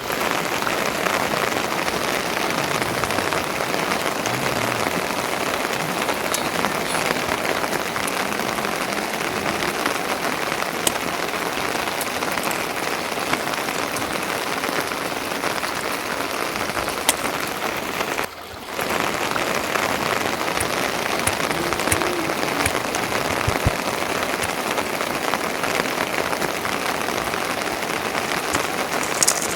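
Steady rain hissing, with a few sharp drop ticks; it cuts out briefly about eighteen seconds in, then resumes.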